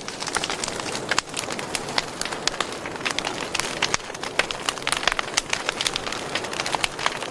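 Wood fire in a fireplace crackling and popping: many quick irregular snaps over a steady hiss of the flames.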